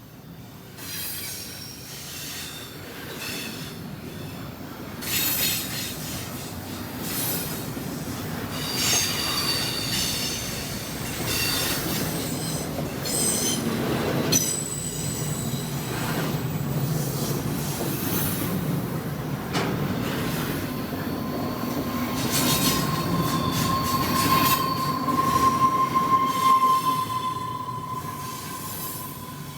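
Freight train cars rolling past, with steel wheels squealing against the rails on and off and a steady rumble underneath. About two-thirds of the way in, one long single-pitch squeal holds for several seconds.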